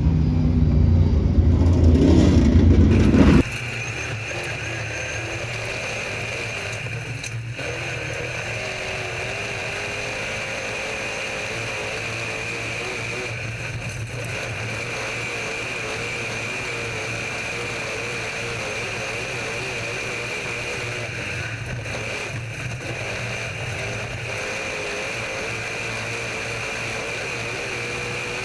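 Race car engines running loud for about three seconds, then an abrupt cut to a steady mechanical hum with a constant high whine and a wavering mid tone.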